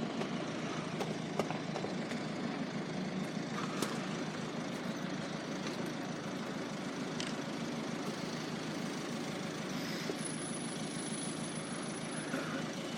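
Steady hum of idling road vehicles, with a few faint clicks.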